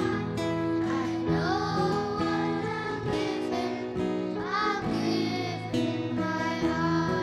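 Music performance: young voices singing a carol over guitar accompaniment, with held notes and sliding pitches.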